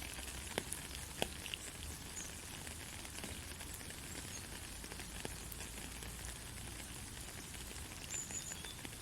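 Gentle steady rain, an even hiss with a few separate louder drops ticking in the first seconds and again near the middle.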